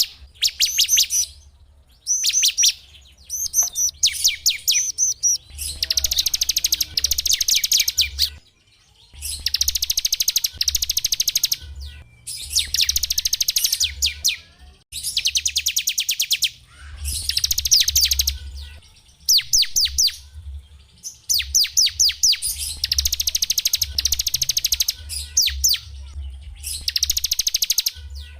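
A small songbird singing fast trills: runs of rapidly repeated high notes in phrases of one to two seconds, broken by short pauses.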